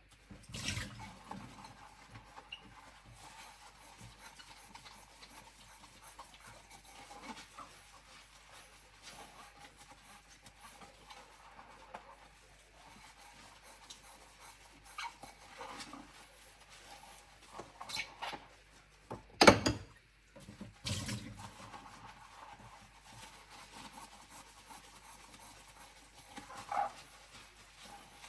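Bowls being rinsed by hand at a sink, with scattered clinks and light knocks as they are handled and set down. One sharp knock about two-thirds of the way through is the loudest.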